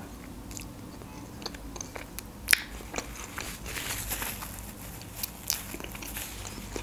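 Close-miked mouth sounds of chewing a bite of soft pancake, with scattered wet clicks, one sharper than the rest about two and a half seconds in. Near the end a paper napkin rustles against the lips.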